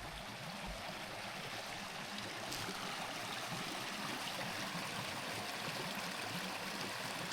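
Small creek flowing steadily, a constant sound of running water that grows slightly louder about two and a half seconds in.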